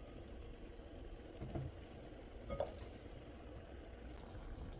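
Fettuccine being stirred into Alfredo cream sauce simmering in a pan: a faint bubbling hiss, with two soft utensil knocks about one and a half and two and a half seconds in.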